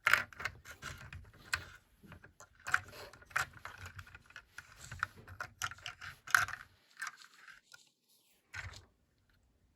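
Plastic Lego pieces clicking and rattling as a minifigure is worked into a seat inside a Lego truck model, irregular small clicks that stop about seven seconds in, with one more knock near the end.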